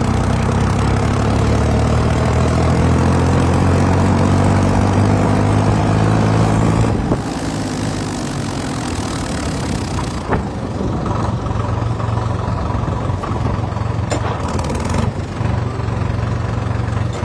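Diesel tractor engine running steadily, its pitch shifting slightly over the first several seconds. The sound changes abruptly about seven seconds in and again near ten and fifteen seconds, with the engine still running at a slightly lower level.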